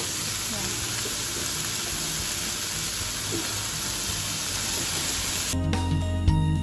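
Diced vegetables and sausage sizzling in a hot frying pan, a steady hiss. About five and a half seconds in, the sizzle stops abruptly and background music begins.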